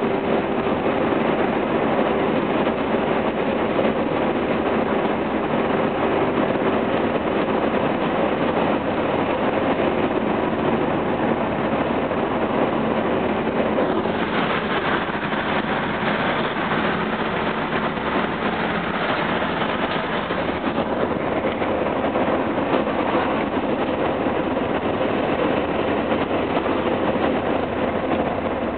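1979 Hurst/Olds V8 running steadily on the road, with a constant mix of engine, drivetrain and tyre noise that grows a little brighter about halfway through.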